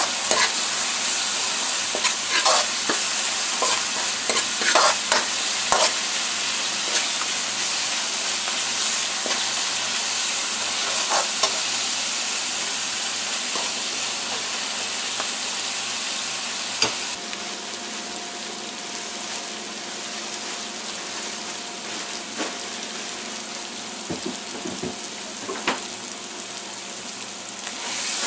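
Onions and curry paste frying in hot oil in a non-stick wok, a steady sizzle, with the clicks and scrapes of a metal spoon stirring against the pan. The sizzle eases off gradually through the second half.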